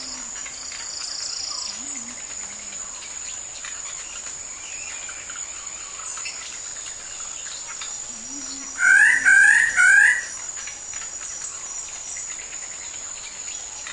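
Steady high chirring of insects, with three loud, quick bird calls about nine seconds in, from a displaying male king bird-of-paradise.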